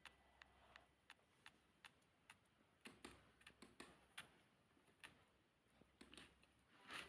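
Faint, crisp clicks and crunches of chewing, evenly spaced at about three a second at first, then coming in quicker, denser clusters.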